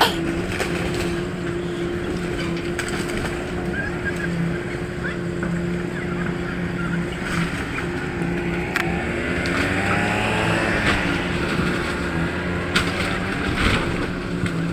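Heavy demolition machine's engine running with a steady drone, with scattered knocks and crunches of debris; around ten seconds in, a few tones glide up and down over the drone.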